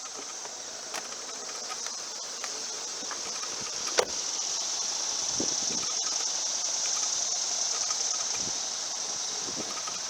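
Steady high-pitched chorus of crickets, louder in the second half, with one sharp click about four seconds in.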